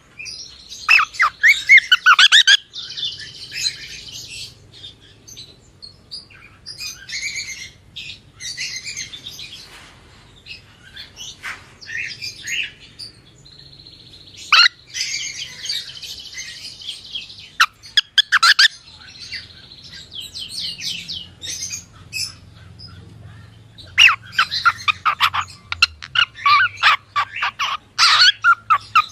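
Cockatiel chirping and whistling in bursts of rapid short chirps, with quieter spells between them.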